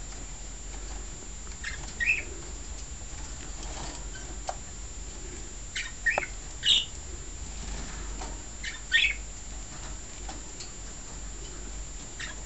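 Small pet cage birds giving a handful of short, high chirps a few seconds apart, some sliding in pitch, over a steady low hum.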